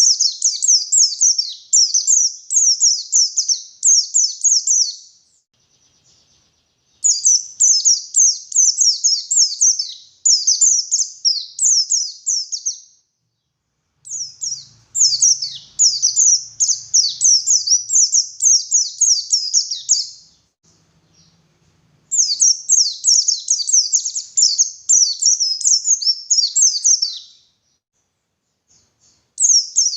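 White-eye (pleci) singing: long runs of rapid, high twittering chirps, each burst lasting about five or six seconds, broken by short pauses. A faint low hum sits under the song midway through.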